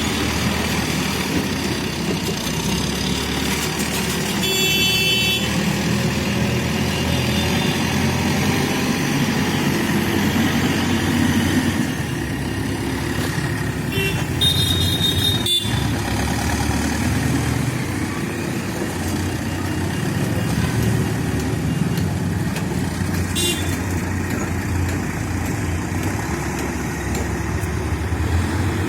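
Diesel engine of a Manitou Terex backhoe loader running steadily at work, a continuous low rumble. A shrill horn sounds briefly about 5 seconds in and again about 15 seconds in, with a fainter toot later.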